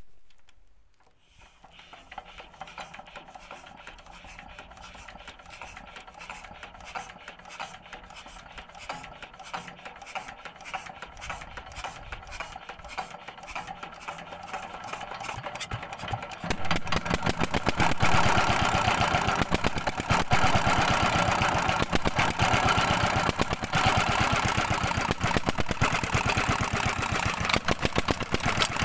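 Petter diesel engine of a tube-well water pump being turned over with a rhythmic beat. About sixteen seconds in, it catches and runs, much louder, with a steady rapid beat.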